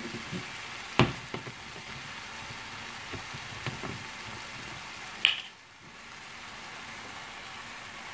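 Chopped bell peppers and tomato masala sizzling in a non-stick frying pan, a steady hiss. There is a sharp knock about a second in and a brighter click about five seconds in.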